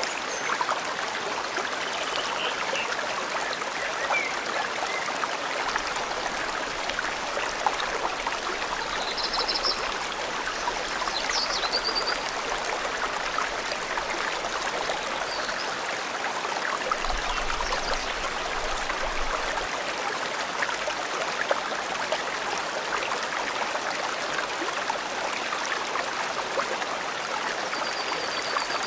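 Forest stream flowing steadily, with a few short bird chirps here and there.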